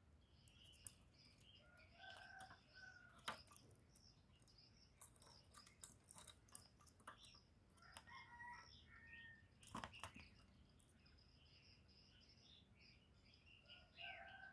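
Faint birds chirping and calling, with two sharp clicks about three and ten seconds in.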